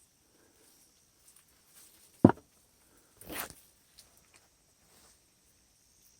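Sparse handling noises: a sharp tap about two seconds in, a short rustle a second later, and a few faint ticks.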